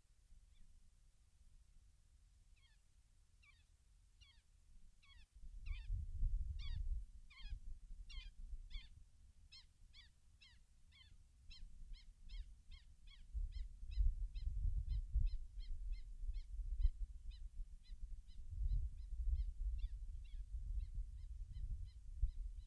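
A bird calling over and over: short notes that each fall in pitch, slow at first, then speeding up to about two or three a second. From about five seconds in, a low, gusty rumble of wind on the microphone comes and goes, louder than the calls.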